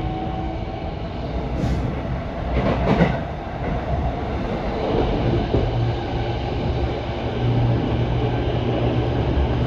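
Electric commuter train running along the track: a steady rumble with a couple of clacks from the wheels about two and three seconds in, and a low steady hum that comes in about halfway.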